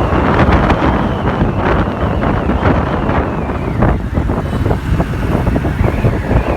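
Wind buffeting the microphone on a moving motorbike, over the motorcycle's engine and road noise.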